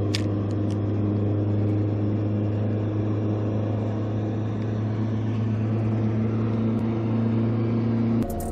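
A boat motor running steadily at a constant low hum, with no change in speed. It starts and stops abruptly.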